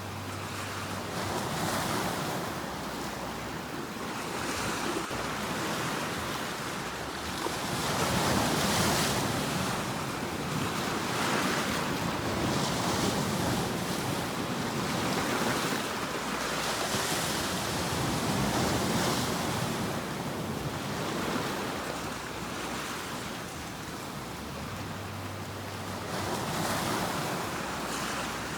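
Ocean waves breaking and washing on a shore, with the surf swelling and falling back every few seconds.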